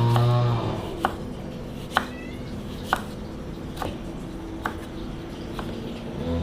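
Knife chopping on a cutting board, single sharp strokes about once a second.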